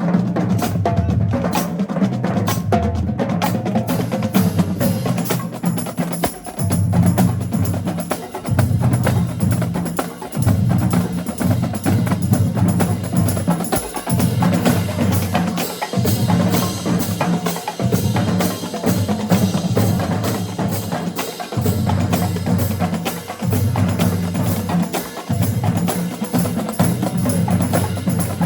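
Marching band playing a fast percussion groove: snare and bass drums struck rapidly with sharp stick clicks, under low brass holding repeated low notes in short phrases.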